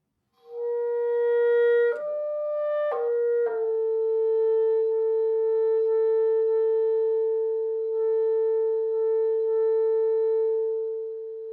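Music: a single wind instrument starts about half a second in, steps briefly up to a higher note and back down, then holds one long steady note.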